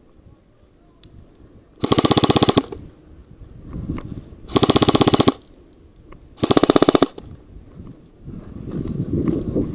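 Airsoft gun firing three short full-auto bursts of rapid clicking shots, the last about four seconds in, with quieter rustling between them.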